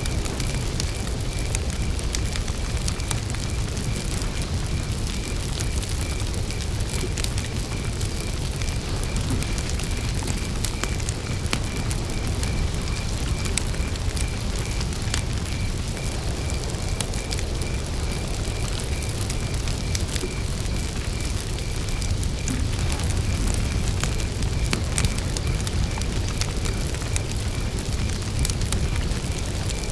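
Campfire burning, with frequent sharp crackles and pops over a steady low rumble of the flames. A cricket chirps throughout at one pitch and an even pace.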